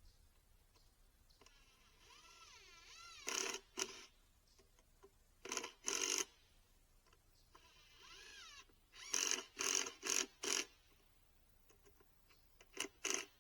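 Power drill run in several short bursts, driving screws, its motor pitch rising and falling between the louder bursts.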